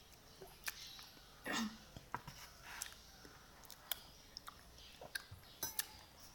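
Close-miked chewing of pansit batil patong noodles, with scattered small mouth clicks and one longer, louder mouth sound about one and a half seconds in.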